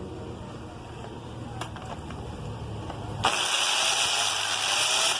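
Electric drill running with a low steady hum, then about three seconds in it turns suddenly much louder and harsher as the bit cuts a bolt hole for a motorcycle licence-plate bracket.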